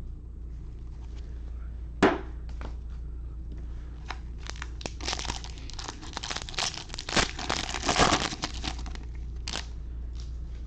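Foil wrapper of a baseball card pack being torn open and crinkled: a sharp snap about two seconds in, then a dense run of crinkling and tearing in the middle, and a last crackle near the end.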